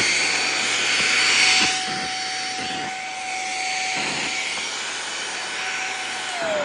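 Shark HV301 Rocket corded stick vacuum running just after being switched on: a steady motor whine over a rushing hiss of air, which gets quieter about two seconds in. Near the end the motor's pitch drops briefly, then climbs again.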